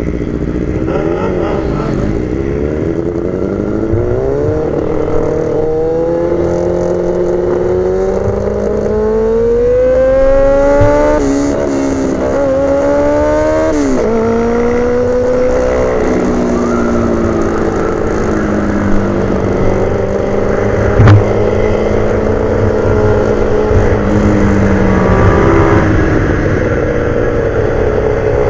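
Motorcycle engine at racing speed, its pitch climbing under acceleration and dropping sharply at each gear change or when braking, over a steady rush of wind and road noise. There is one sharp knock about three-quarters of the way through.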